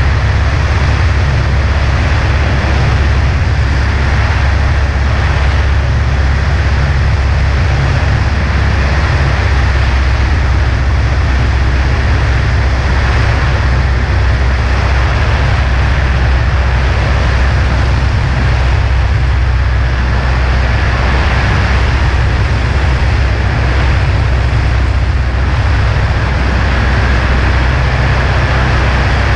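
Cessna 140A's four-cylinder engine and propeller droning steadily in flight, with a deep, unchanging hum and a constant rush of wind noise over it.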